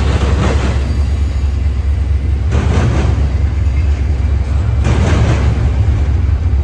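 Train passing: a steady deep rumble with a swell of noise about every two and a half seconds.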